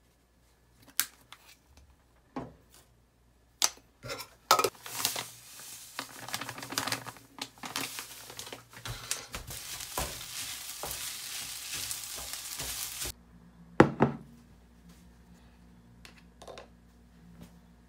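Chopped kimchi, onion and ham frying in a nonstick pan on a gas hob: a few sharp taps, then several seconds of crackling sizzle that cuts off suddenly, followed by a single loud knock.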